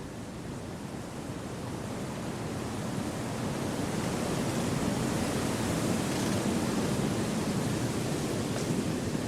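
Wind rushing through forest trees, a steady noise that swells into a gust over the first several seconds and stays up.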